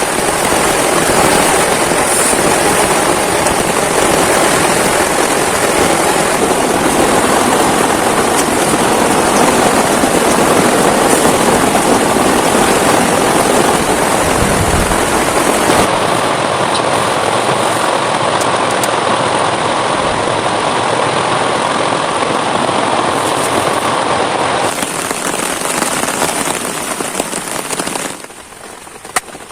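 Heavy rain pelting down on a tent or tarp shelter in a steady, loud hiss, dropping away sharply near the end to lighter rain.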